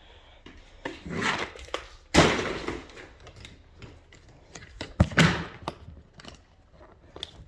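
Handling noises: rustling and scraping with a loud sudden thud about two seconds in and a sharp knock about five seconds in.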